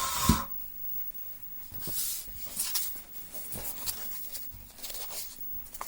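Stiff slot-insulation paper being handled in an electric motor's stator: scattered rustles and light clicks, with a brief hum-like tone right at the start.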